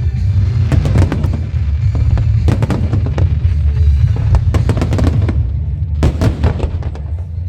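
Fireworks going off in clusters of sharp bangs and crackles, in several bursts, over loud music with a heavy bass.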